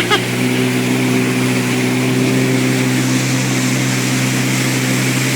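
Jet ski engine running at a steady, even speed, without revving, while the craft cruises, with a steady hiss of wind and water above it.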